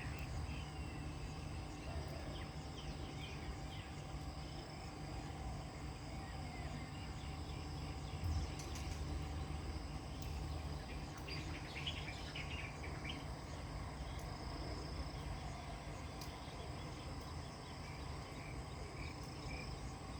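Insects trilling steadily in a high even tone, with short bursts of bird chirps a few times, over a steady low rumble.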